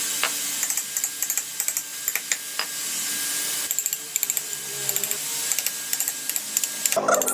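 Woodworking tool noise: short runs of rapid, light clicking, with a steady hiss through the first half.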